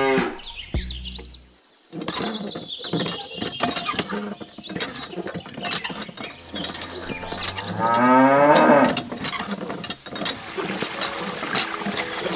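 A cow mooing once, a long call rising and falling in pitch about halfway through, over an irregular run of clicks and rattles.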